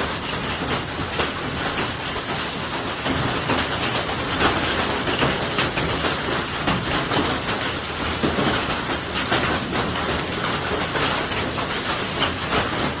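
Heavy rain falling on a sweet orange tree: a dense steady downpour with many sharp drop hits throughout.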